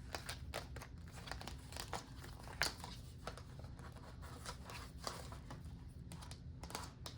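Faint rustling and crinkling of paper cash envelopes and bills being handled, with scattered light ticks.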